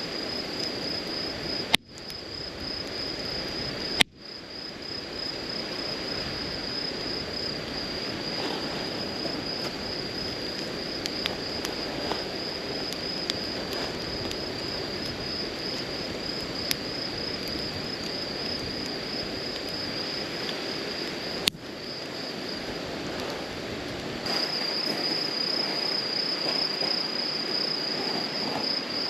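Crickets chirring in a steady, high, pulsing trill over a low rushing hiss, louder for the last few seconds. Three sharp clicks cut in, about two, four and twenty-one seconds in.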